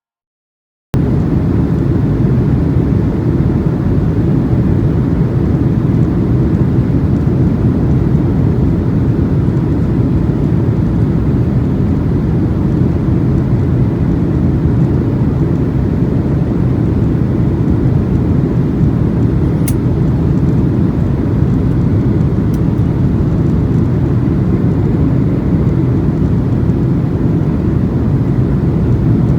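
Steady, loud low rumble of an airliner's cabin in flight on approach: engine and airflow noise that starts abruptly about a second in. Two faint clicks come around the middle.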